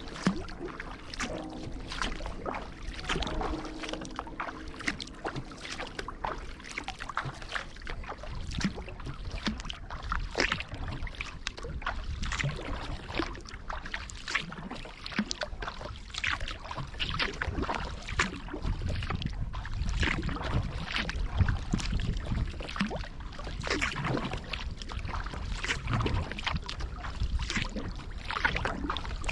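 Kayak paddle blades dipping into and pulling through river water, with steady splashes and drips from stroke after stroke. A faint steady hum sounds in the first few seconds, and a low rumble comes in during the second half.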